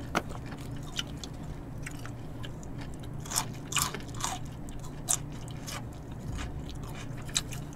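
Close-up eating sounds: chewing and biting of a leaf-wrapped bossam (boiled pork) ssam, with scattered wet mouth clicks and smacks, a few louder ones in the middle.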